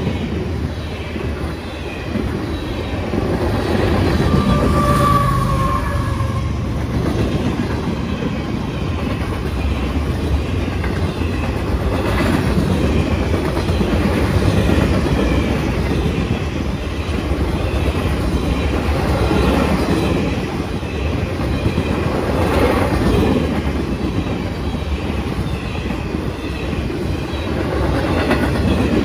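Freight cars of a mixed manifest train rolling past: a steady rumble of steel wheels on rail with repeated clickety-clack over the rail joints, and a brief squeal about five seconds in.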